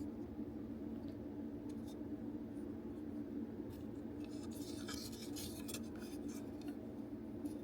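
Light clicking and scraping of small plastic toy parts being handled and worked apart, clustered in the middle of the stretch, over a steady low hum.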